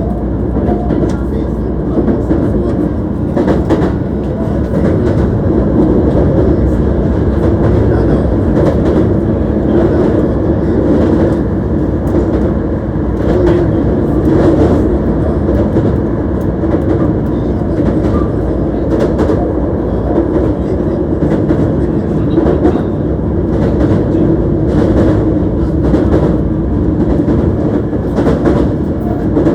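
Hankyu 1300 series electric train running on the line, heard from inside the car: a steady rumble of wheels on rail, with short clicks from rail joints scattered through it.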